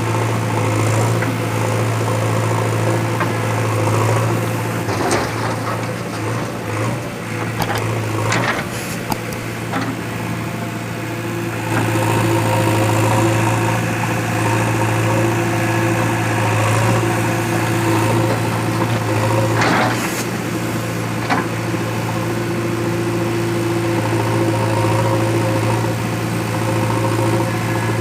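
JCB 3DX backhoe loader's diesel engine running steadily, its note sinking for a few seconds about eight seconds in and picking up again near twelve seconds. A few sharp knocks come over it, one near eight seconds and two close together around twenty seconds.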